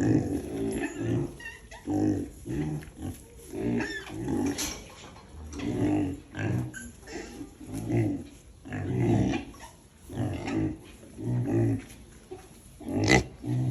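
A pig grunting over and over, short low grunts about one a second.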